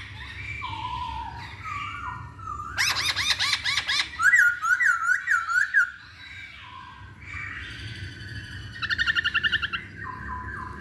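Poksay hongkong laughingthrush singing a varied run of loud whistled phrases. They include a fast rattling trill about three seconds in, a string of looping repeated notes just after, and another quick trill near the end.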